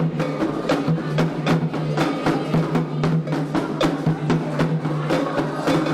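Candomblé ritual drumming for a xirê: atabaque hand drums and struck percussion playing a fast, steady rhythm, with a steady low hum underneath.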